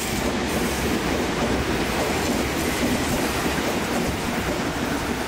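JR Central 313 series electric train running into the station along the platform, the steady rumble of its wheels on the rails.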